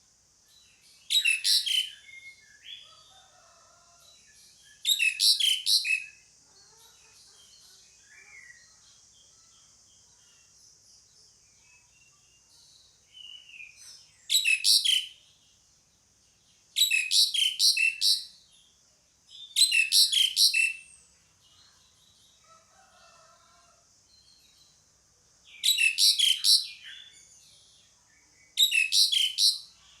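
Asian pied starling (jalak suren) calling: seven loud bursts of harsh, chattering calls of about a second each, with fainter calls between them, over a steady high hiss.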